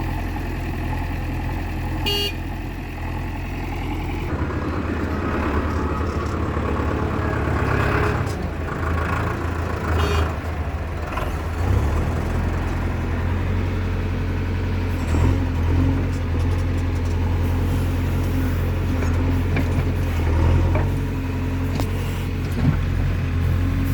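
Diesel engines of a backhoe loader and tractors running steadily under work.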